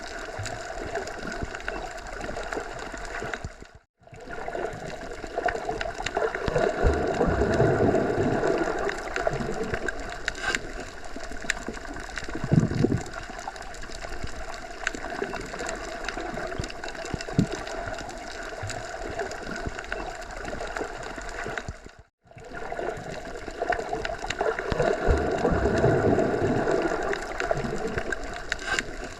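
Wind rushing through forest trees in slow swelling gusts, with two brief drop-outs to silence, one about four seconds in and one near the end.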